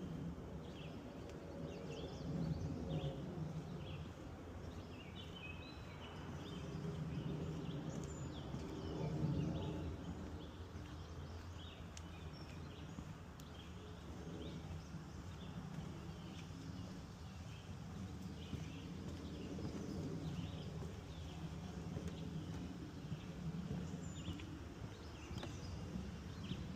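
Small birds chirping busily with short, repeated high notes, over a low rumble that swells and fades, loudest about nine seconds in.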